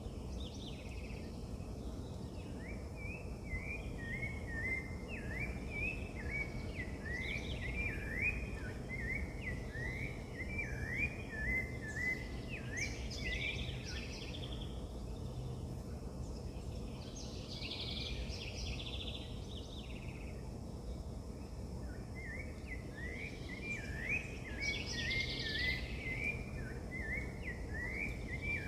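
Birds calling outdoors: long runs of short, quickly repeated chirps that sweep up and down, with a pause in the middle. Other higher bird calls come in now and then, over a steady low background rumble.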